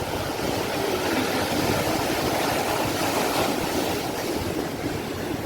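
Sea waves breaking and washing in, a steady rush of surf that swells slightly in the middle.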